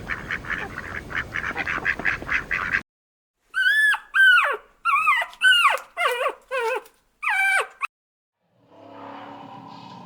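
Animal calls in three separate clips: a fast pulsing chatter until nearly three seconds in, then seven short, loud calls, each falling in pitch, and near the end a lower, steadier sound begins.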